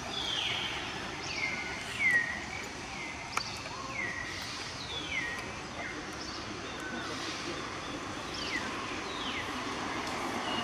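A bird calling over and over: high whistled notes that each slide down in pitch, about one a second, over a steady outdoor hiss. One sharp click comes a little over three seconds in.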